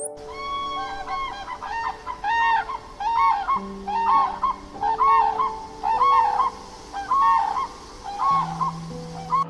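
A bird giving a long series of short, pitched calls, often in pairs, roughly one or two a second, over soft piano music.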